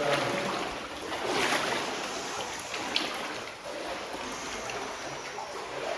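Water sloshing and splashing in uneven surges as someone moves through flood water, with a single sharp click about halfway through.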